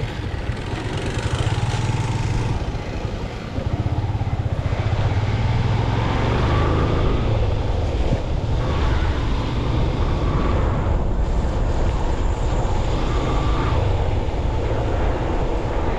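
Motorcycle engine running while riding through traffic, a steady low rapid pulsing under a broad road-noise haze. Three brief high tones come partway through.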